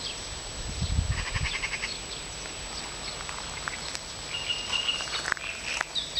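Nightingale singing: a fast run of repeated notes about a second in, then clear held whistled notes later on.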